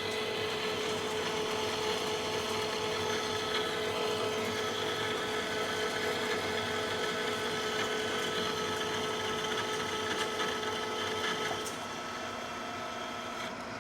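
Manual lathe running with a carbide insert facing a steel plate under power feed, a steady machine whine with several held tones from the cut, which is still in the rough plasma-cut steel. About twelve seconds in, the strongest tone cuts off and the sound drops slightly, leaving the lathe running.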